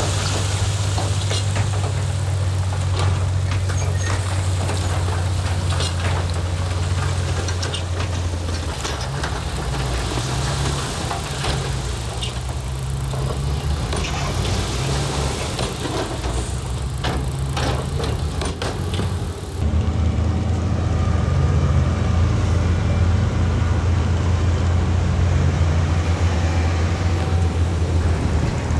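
Heavy diesel earthmoving machinery running with a strong, steady low engine hum. Scattered sharp knocks and clatter come through in the first two-thirds. About two-thirds through, the sound changes abruptly to a steadier, deeper engine hum.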